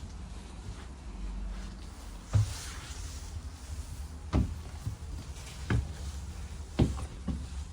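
Scania N230UD OmniCity bus running with a steady low rumble. A short hiss comes about two and a half seconds in, and several sharp knocks and rattles are spread through.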